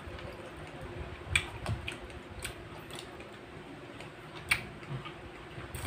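Close-up mouth sounds of a person chewing grapes: a handful of sharp, wet clicks and smacks at irregular intervals, over a faint steady hum.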